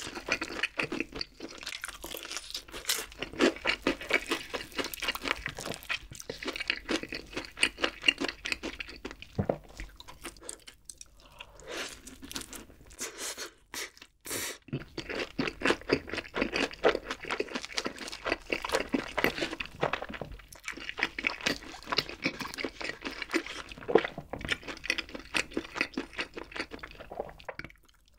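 Close-miked eating of a crispy spicy fried chicken drumstick: dense crunching and chewing of the coated skin and meat in two long stretches, with a short lull about halfway through.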